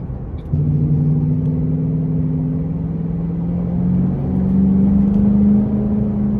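Ford Mustang with a Roush Extreme axle-back exhaust accelerating, heard from inside the cabin. A deep, droning engine note steps up in pitch and loudness about half a second in and climbs steadily, then jumps higher about four seconds in.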